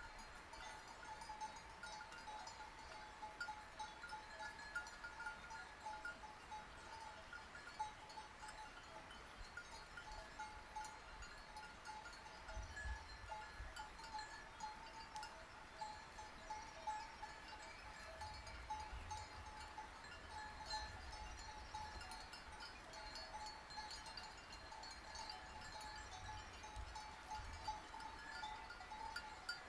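Bells worn by a flock of sheep, clanking and ringing unevenly and without a break as the animals move.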